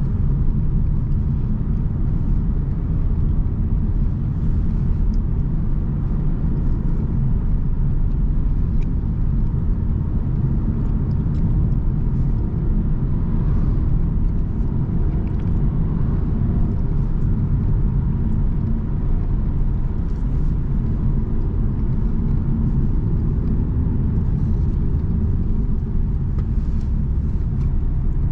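Car driving along at steady speed: continuous low engine and road rumble.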